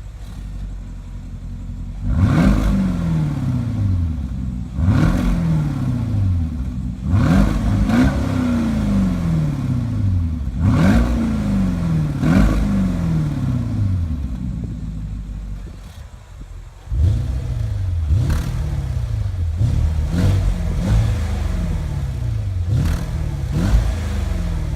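Porsche Cayenne Turbo's twin-turbo V8 through a Guerrilla bypass exhaust, revved again and again while standing. Each blip rises sharply and falls slowly back toward idle, about a dozen revs with a short lull about two-thirds of the way through.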